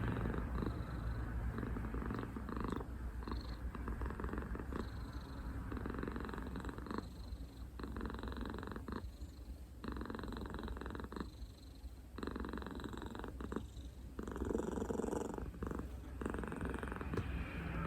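Domestic cat purring steadily, the purr breaking off briefly between some breaths.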